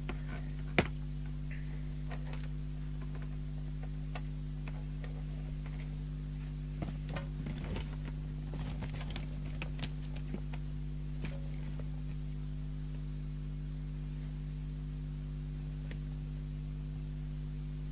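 Steady low mains hum with scattered light clicks and taps from a CB radio set being handled on the bench. The sharpest click comes about a second in, and a cluster of small clicks falls in the middle.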